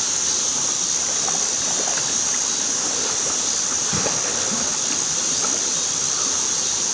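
Mountain stream running steadily, an even rush of flowing water, with a steady high hiss above it.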